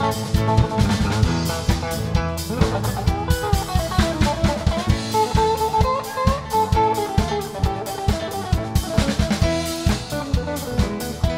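Band playing rock music with a drum kit keeping a steady beat under guitar, and a sliding lead melody through the middle.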